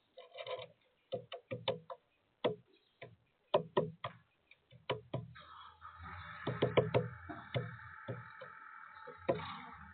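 A woodpecker pecking at sunflower seeds on a feeder: irregular sharp taps, sometimes several in quick succession. About halfway through, a steady hum sets in underneath.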